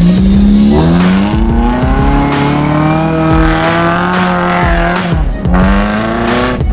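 Off-road competition vehicle's engine revving hard, its pitch climbing over several seconds, falling back about five and a half seconds in, then rising again, over background music with a beat.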